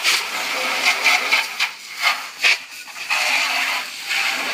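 Water spraying from a hose onto a roasting box to rinse it: a hissing spray that drops off briefly in the middle and comes back strong.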